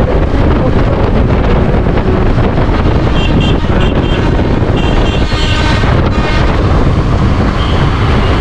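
Heavy wind noise buffeting the microphone of a KTM 390 Adventure motorcycle ridden at speed, with the bike's running sound underneath. A few short high tones come through about three and five seconds in.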